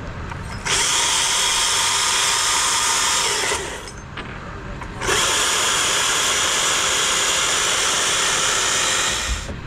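Chainsaw revved to full throttle and cutting into wood, twice: a steady high-pitched run of about three seconds, a short drop off the throttle, then a longer cut of about four seconds that stops shortly before the end.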